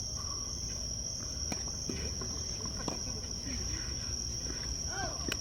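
Insects chirring in a steady high-pitched drone, with a few sharp knocks of a tennis ball being struck, about a second and a half apart.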